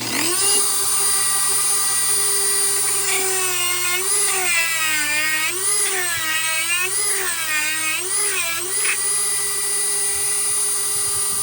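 Dremel 4000 rotary tool with a carving bit spinning up and running with a high, steady whine. From about a third of the way in, its pitch sags and recovers four or five times as the bit bites into the wood under load, then it runs steady again.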